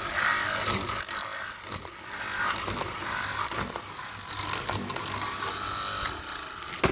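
Door lock and handle hole cutting machine for wooden doors running, a steady mechanical rattle with scattered clicks. It stops with a sharp click near the end.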